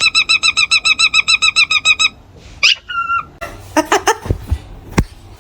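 Pet parrot calling: a rapid run of repeated high notes, about ten a second, for the first two seconds, then a few shorter separate calls, one sliding down in pitch, and a couple of sharp knocks near the end.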